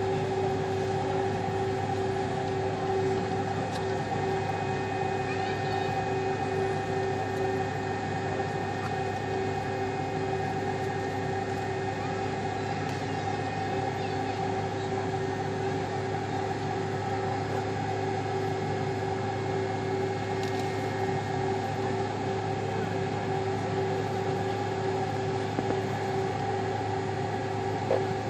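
Steady jet airliner cabin noise with the engines running: a constant hum and drone with several steady tones, holding the same pitch throughout.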